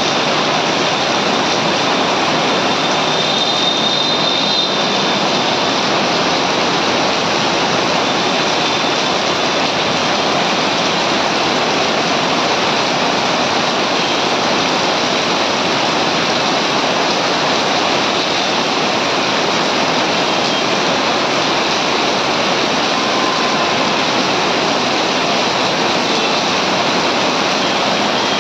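Heavy monsoon rain pouring onto paved ground and a road, a dense, steady hiss that holds at one level throughout.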